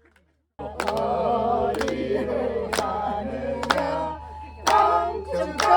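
A group of voices singing together after a brief silence, with a sharp clap or drum beat about once a second.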